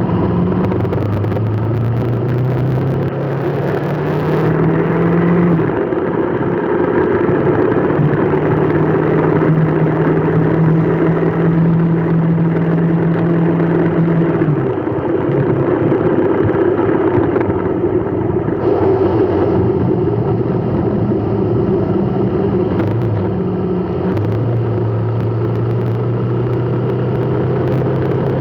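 A motor vehicle's engine running while under way, over steady road and wind noise. The engine pitch rises slowly, holds, then falls back several times, as with gear changes in stop-and-go traffic.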